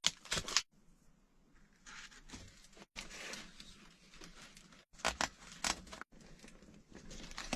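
Handling noises as a cardboard-box range hood is fastened at its corners: cardboard rustling and scraping, with a few short sharp clicks.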